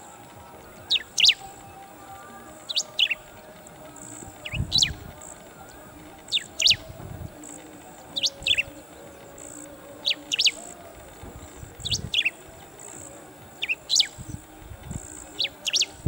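Bristled grassbird calling from its perch: a short call of two quick, high, sweeping notes, repeated about nine times at intervals of roughly two seconds.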